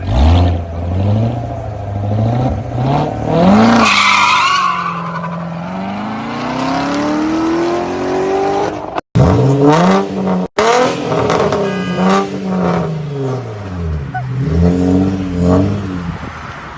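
Sports car engine and exhaust revving hard, its pitch climbing through several gear changes and later rising and falling again and again. The sound cuts out abruptly twice, about nine and ten and a half seconds in.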